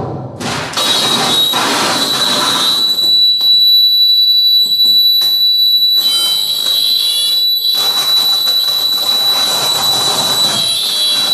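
Live harsh noise music from electronic gear: dense screeching noise over a steady piercing high tone. Most of the low noise cuts out about three seconds in, leaving the high tone and sharp clicks, then the full wall of noise comes back about eight seconds in.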